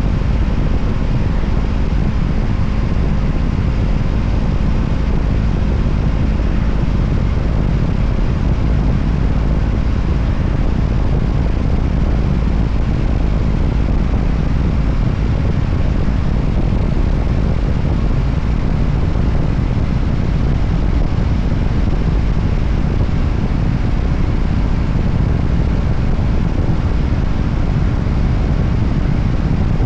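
Voge 300ACX motorcycle riding at a steady pace: the engine runs evenly under a dense, deep rumble of riding noise, with no change in speed or revs.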